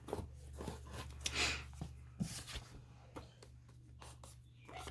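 Paper being handled at a craft table: a series of short rustles, light taps and one longer swish of paper rubbing, over a steady low hum.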